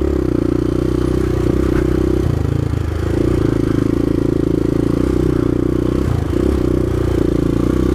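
Suzuki LTZ400 QuadSport's single-cylinder four-stroke engine running steadily under throttle through mud and water, easing off briefly twice.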